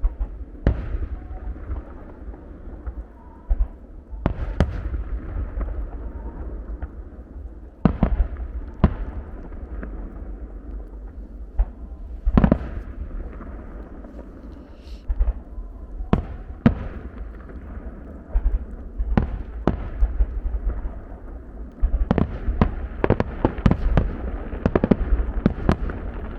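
Aerial fireworks display: firework shells bursting in scattered booms a few seconds apart, over a steady low rumble. About 22 seconds in, a rapid string of many bursts follows in quick succession.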